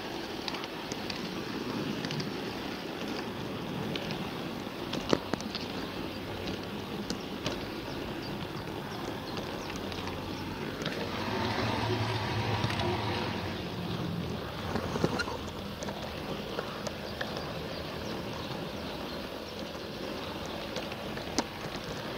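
LGB G-scale garden railway train running on outdoor track, a steady rolling noise with occasional sharp clicks. Its low motor hum grows louder about halfway through, then fades.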